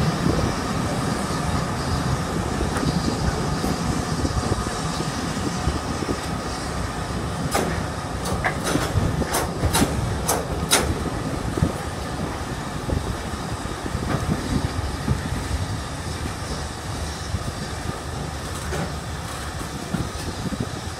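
Steam-hauled passenger train rolling along, heard from a carriage window: a steady rumble of wheels on track, with a short run of sharp clicks about halfway through.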